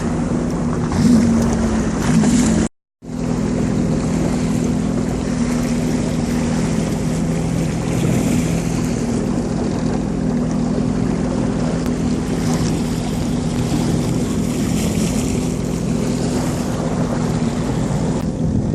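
Jet ski engine running steadily under way, with rushing water and wind noise over it. The sound drops out completely for a moment about three seconds in, then returns unchanged.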